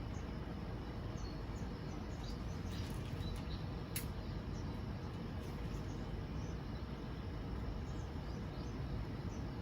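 Steady outdoor background noise with scattered faint, short high chirps and one sharp click about four seconds in.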